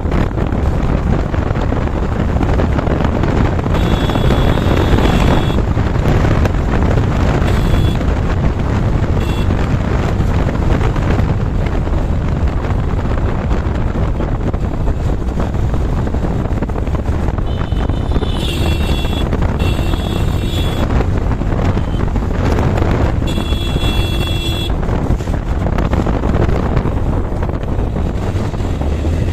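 Motorcycle riding along at speed, engine running steadily under heavy wind rush on the microphone. A few brief high-pitched tones cut in now and then.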